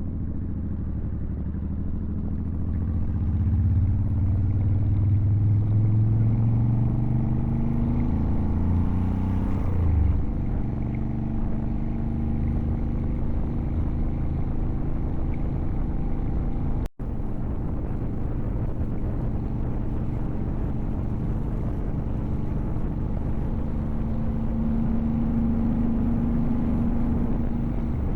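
Motorcycle engine running on the road, climbing in pitch as it accelerates for the first ten seconds, then dropping and holding at a steady cruise. The sound cuts out for an instant about halfway through.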